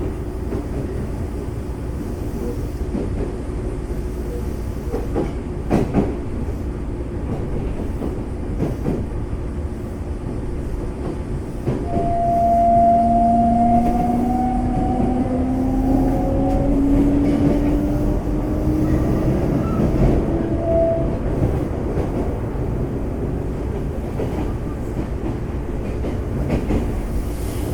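Running noise inside a Semboku Rapid Railway 5000 series electric train car, with a steady rumble and a few rail-joint knocks. About twelve seconds in it gets louder and the Hitachi GTO VVVF inverter and traction motors give a whine that rises in pitch for several seconds.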